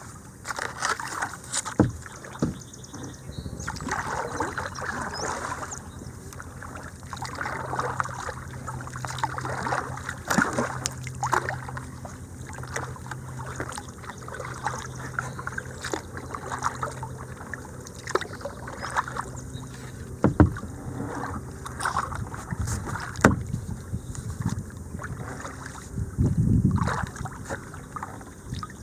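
Kayak moving down a small creek: water splashing and trickling around the hull and paddle, with occasional sharp knocks.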